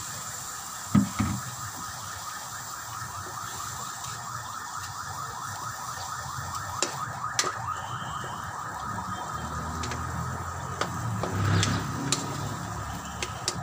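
Chayote frying and sizzling steadily in a wok over a wood fire, with a sharp knock about a second in and several clicks and knocks later as firewood is pushed in and a spatula works the wok.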